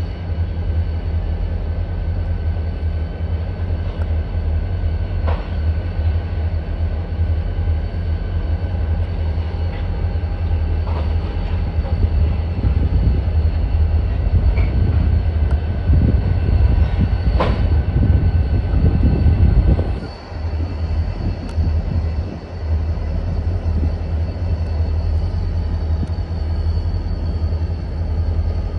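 Two diesel-electric yard locomotives shoving a string of freight cars at low speed: a steady heavy engine rumble, with a thin steady squeal from the wheels and a few sharp clanks from the cars and rail.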